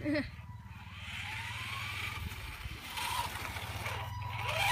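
Electric RC car's motor whining, rising in pitch as it speeds up, twice, over a steady low hum.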